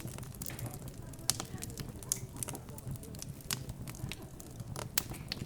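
Fireplace wood fire crackling, with irregular sharp pops and snaps, over a low hum of background chatter.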